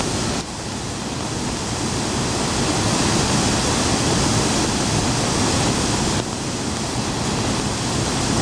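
Steady roar of water pouring out of the Hōnen-ike masonry multiple-arch dam during a flood release, dense and even with small shifts in level about half a second in and about six seconds in.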